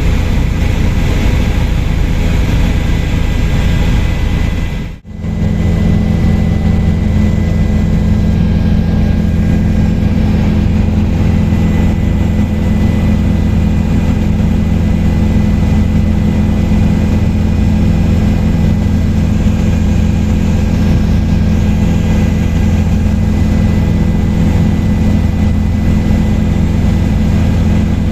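Helicopter in flight: a steady, loud drone of engine and rotors with several constant hum tones. It drops out briefly about five seconds in, then carries on.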